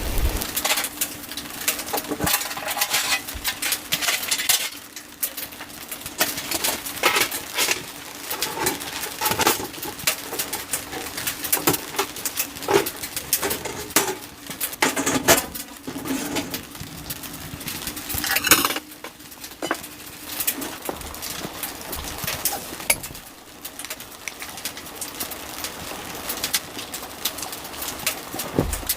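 Irregular clicks and knocks of small hard objects being handled, like cookware and utensils, over a steady low hum in the first half.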